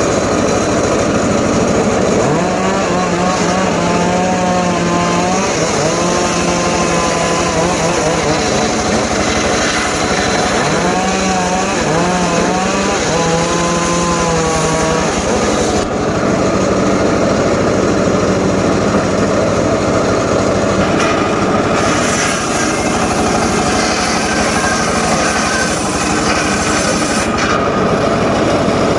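Engine-powered wood saw running steadily while cutting jowar timber. Its pitched hum wavers and dips during two stretches, about two to six seconds in and again about ten to fifteen seconds in.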